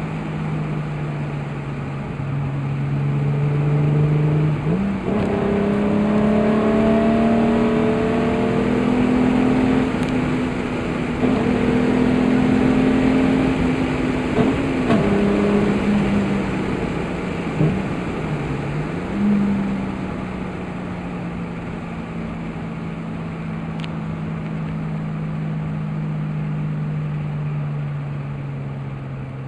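VR6 engine of a Mk2 VW Golf heard from inside the cabin under throttle, its revs climbing through the first half with a few short breaks. Near the middle the revs drop and pick up again briefly, then fall off slowly as the car eases off.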